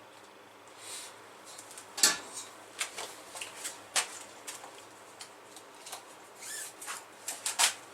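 Objects being handled on a workbench: scattered sharp clicks and knocks, with a few soft scrapes in between.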